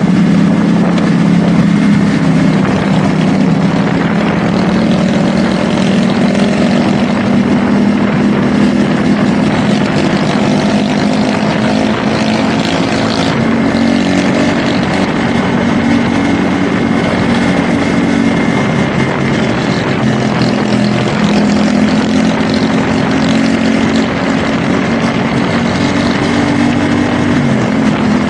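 CFMoto 450SR S parallel-twin engine running at a fairly steady cruise, its pitch shifting only slightly, over a steady rush of wind noise.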